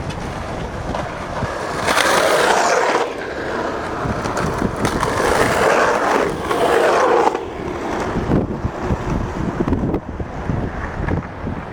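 Skateboard rolling, loudest in two stretches of a second and about three seconds, with wind rumbling on the microphone.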